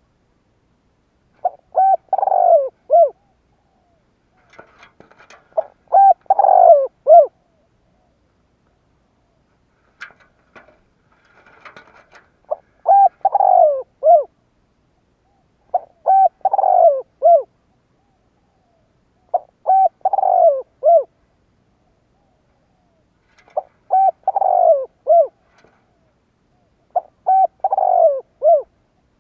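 Spotted dove cooing its song phrase again and again, seven times, a few seconds apart, each phrase a quick run of coos ending on a separate last note.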